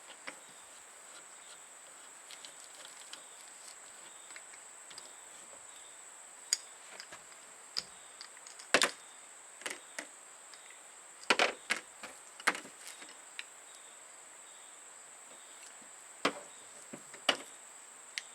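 About a dozen scattered sharp clicks and taps of metal hand tools and parts as the cap bolts of a Duo-Fast CN350 nail gun are undone, with a few seconds' pause before the last two.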